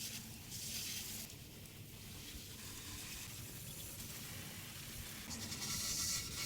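Garden hose spraying a steady stream of water over a motorcycle, a faint, even hiss that swells a little about a second in and again near the end.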